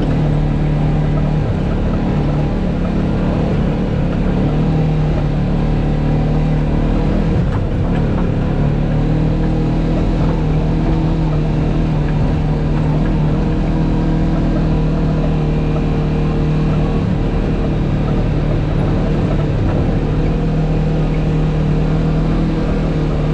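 Off-road vehicle engine running steadily at low, even revs: a constant drone that hardly changes in pitch.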